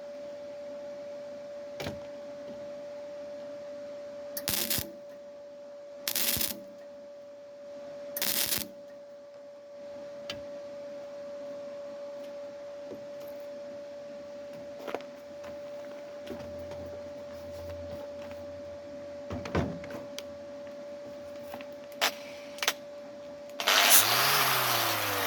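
Three short bursts of MIG-style welding crackle, tack welds about two seconds apart, over a steady hum, with scattered clicks. Near the end a loud power tool starts up.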